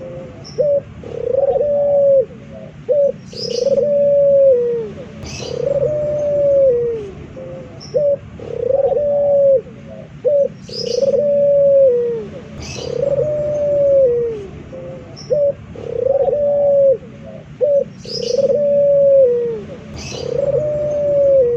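Male puter dove (Barbary dove) cooing over and over, about one long coo every two seconds. Each coo ends in a downward slide and is followed by a few short clipped notes. Brief high chirps from another small bird break in now and then.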